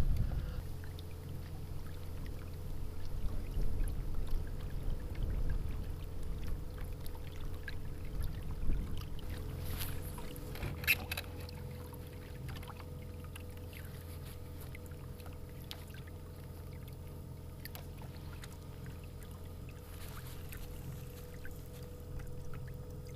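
Small boat motor on a kayak running steadily under way, a constant hum with water and wind rumble that is heavier in the first half and eases off; a few sharp clicks about halfway through.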